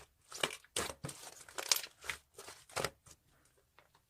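Slime being squished and pressed by hand, giving a string of irregular crackles and squelches that stop about three seconds in.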